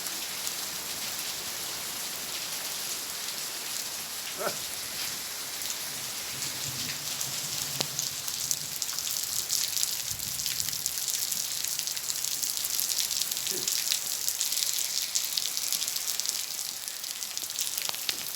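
Steady rain falling and pattering on a surface, a dense hiss of fine drop ticks that gets a little heavier in the second half.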